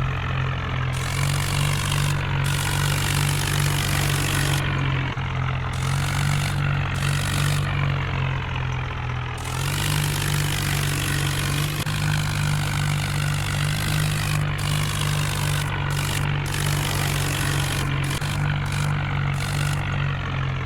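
Heavy diesel engine running steadily with a low drone, its pitch shifting slightly a few times.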